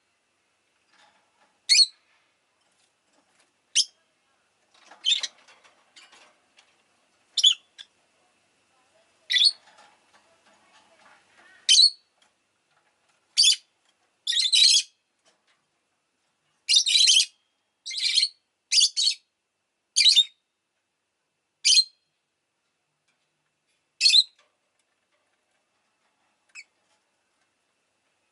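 Rosy-faced lovebird giving short, shrill chirps, one every second or two, with a few coming in quick pairs and runs; they stop about 24 seconds in, with one faint chirp after.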